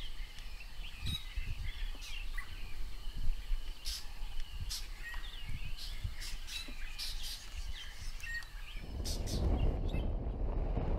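Birds chirping, with many short sharp calls and twitters over a quiet background. About nine seconds in it gives way to a low rumble of wind on the microphone.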